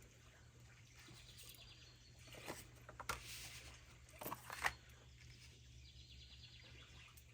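Very quiet room with a steady low hum and a few faint short taps or clicks near the middle.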